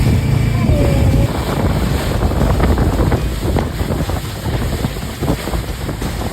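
Boat motor running, with wind buffeting the microphone and water splashing; the steady motor hum drops out about a second in, leaving the rough rush of wind and water.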